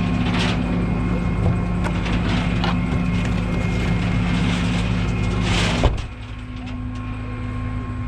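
Tow truck's engine running steadily, with scattered knocks and clatter. About six seconds in there is a sharp clank, and the running sound drops quieter.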